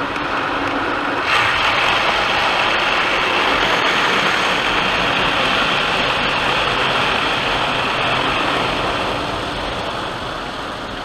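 Tunnel car wash equipment working over the car, heard from inside the cabin: a loud, steady rushing noise that jumps up suddenly about a second in and eases off near the end.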